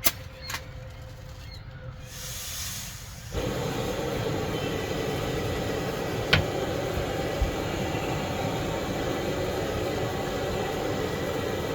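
Camp stove being lit: a couple of clicks and a short hiss of gas, then about three seconds in the burner catches and keeps burning with a steady hiss, with a single click partway through.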